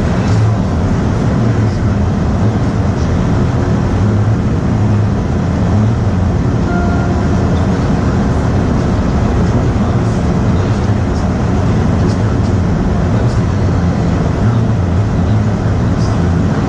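Steady rumble of a vehicle engine and road noise while driving, with a brief faint beep about seven seconds in.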